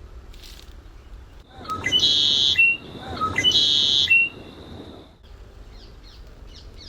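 Two loud, shrill, whistling bird-like calls, each about a second long and a little apart, followed by a few faint short chirps.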